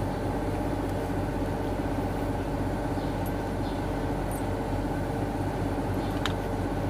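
A steady mechanical hum from a running machine, with a few faint short clicks about three seconds in and again near the end.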